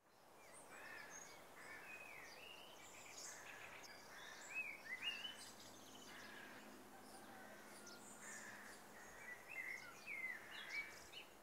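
Birds singing faintly in the open, many short chirps and whistles over a light background hiss, fading in at the start.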